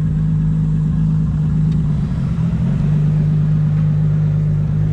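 Nissan S15 drift car's engine held at high, steady revs during a drift, stuttering briefly about two seconds in before holding steady again.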